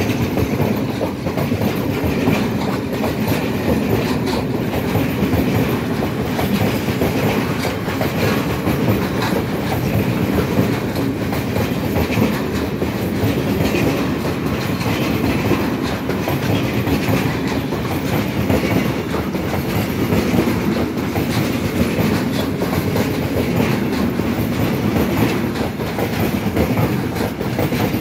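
Freight train of open-top wagons rolling past at speed: a loud, steady rumble of steel wheels on the rails with a clickety-clack over the rail joints.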